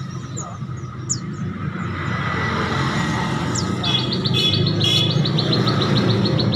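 Caged songbirds chirping busily: scattered short, high, falling chirps, then a fast, rapid-fire trill from about four seconds in, over a steady low background din.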